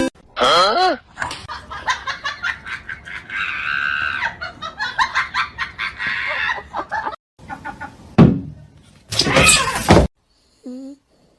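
People laughing, with voices, in a run of short clips that cut off abruptly.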